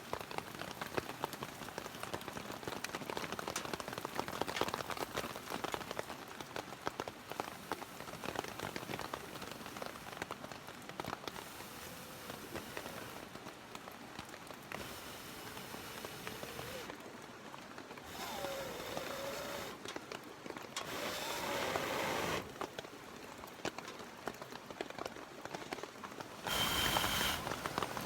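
Rain falling, a dense patter of drops. In the second half come several louder rushing noises of a second or two each, the last near the end.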